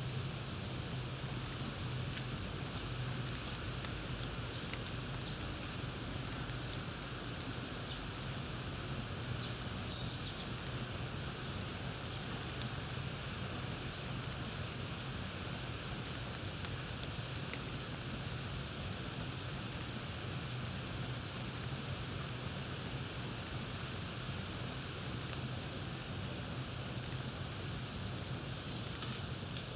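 Campfire burning with a steady hiss and scattered crackles and pops, the sharpest pop about ten seconds in.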